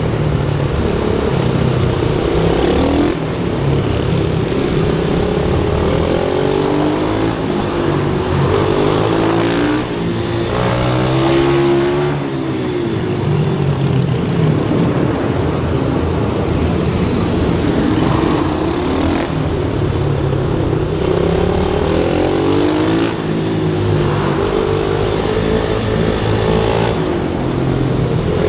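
Pit bikes' small single-cylinder engines revving hard around a track. Several engine notes overlap, each rising in pitch as a bike accelerates and dropping off as it slows, over and over.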